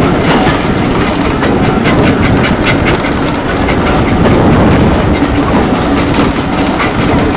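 Heritage railway carriage rolling along, heard from an open window: steady rolling and rushing noise with repeated sharp clicks of the wheels over the rail joints, and a faint hum that comes and goes.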